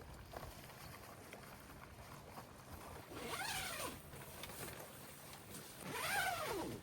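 An animal call, given twice about two and a half seconds apart. Each call lasts under a second and rises then falls in pitch.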